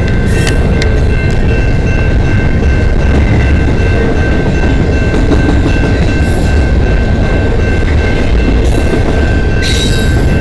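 Double-stack intermodal freight cars rolling past close by: a loud steady rumble of wheels on rail, with thin steady high-pitched tones above it.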